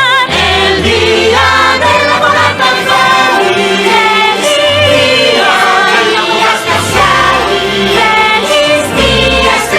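Several voices singing a festive song together with instrumental backing, holding long, wavering notes.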